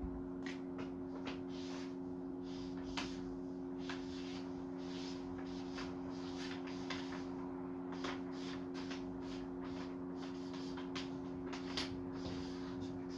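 A steady low hum with scattered soft clicks and rustles: room noise.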